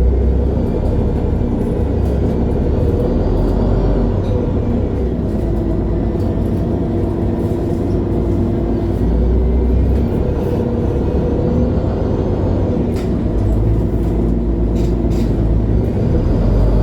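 MAN Lion's City G (A23, NG323) articulated city bus driving, heard from inside: the diesel engine and drivetrain run steadily with a low rumble and a whine that rises and falls gently with speed.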